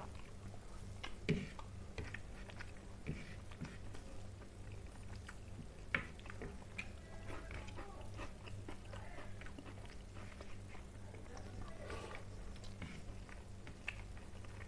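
Close-up eating sounds: chewing and wet mouth noises, with fingers mixing rice on a plate making small clicks and ticks, two of them sharper about a second and six seconds in. A steady low hum runs underneath.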